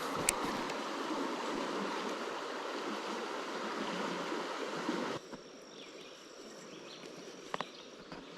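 Rushing water of a river riffle, a steady hiss that cuts off suddenly about five seconds in. After it comes a much quieter stretch with a faint high steady tone and a couple of sharp clicks.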